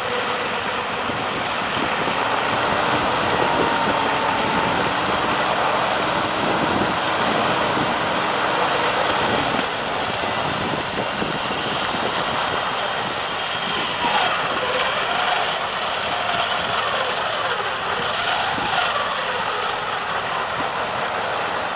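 A vehicle engine running steadily, heard as an even, rough noise. Faint wavering tones rise and fall over it in the second half.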